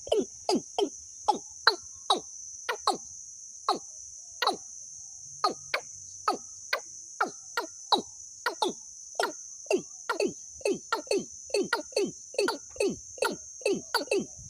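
Recorded bird call: rapid runs of short notes, each sweeping sharply down in pitch, about four a second with a few brief pauses. Under it runs a steady high-pitched insect trill.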